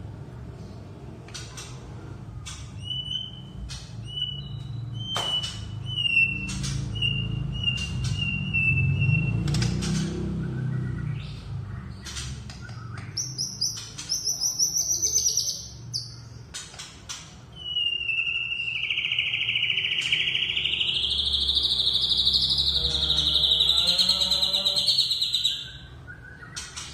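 Bird calls: a run of short whistled notes, each a little lower in pitch, then a brief rising chatter. After that comes one long, loud whistle that wavers up and down for about eight seconds before it cuts off sharply.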